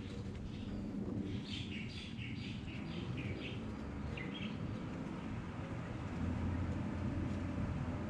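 A small bird chirping in a quick series of short calls from about one and a half to four and a half seconds in, over a steady low hum.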